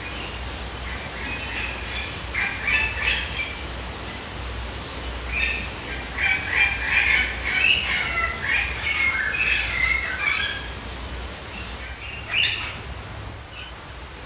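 Birds chirping and calling in quick runs of short notes, busiest in the middle and with one last call near the end, over a steady low rumble.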